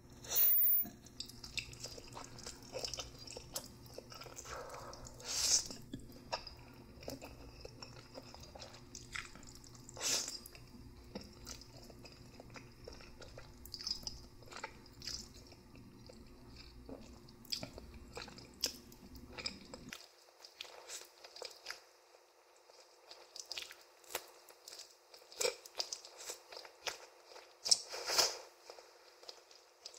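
Close-miked eating sounds of a person chewing noodles: many short wet mouth clicks, with a few louder, longer sounds about half a second in, around five and ten seconds in, and near the end. A low background hum stops about two-thirds of the way through.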